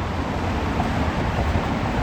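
Fire truck's diesel engine running with a steady low rumble as the truck reverses.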